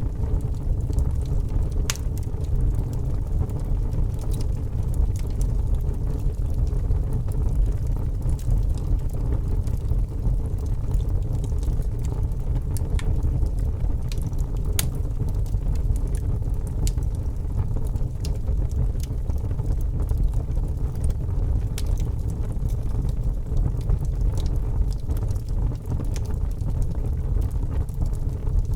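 Wood logs burning in a fireplace: a steady low rumble of the flames with scattered sharp crackles and pops from the wood.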